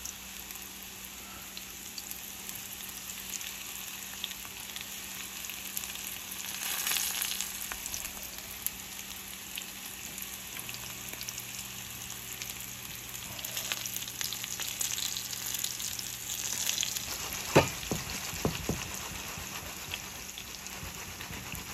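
Breaded morel mushrooms frying in hog lard in a cast-iron skillet, a steady crackling sizzle that swells now and then as pieces are stirred and added. Two sharp knocks come near the end.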